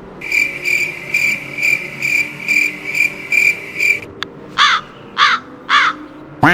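Cricket chirping sound effect, a high chirp repeating about twice a second for about four seconds. It stops, and three harsh crow caws follow.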